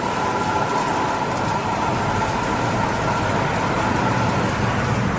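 Automatic in-bay car wash working over the car, heard from inside the car: a steady rush of water spray with a faint, steady whine.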